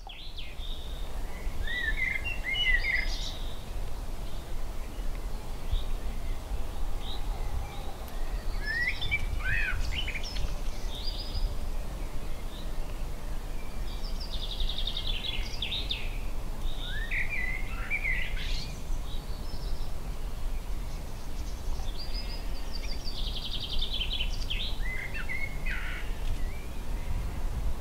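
A songbird singing short phrases every few seconds, some with fast trills, over a steady low rumble of background noise.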